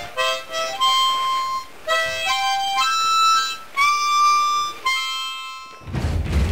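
Harmonica playing a slow tune of single held notes. Near the end a loud, low, rumbling thump cuts in.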